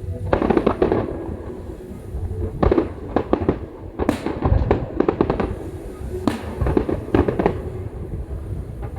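Fireworks display: a rapid series of sharp bangs and crackling bursts, several coming in quick clusters, over a low rumble.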